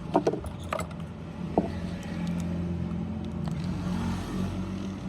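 A few sharp clicks in the first couple of seconds over a steady low mechanical hum.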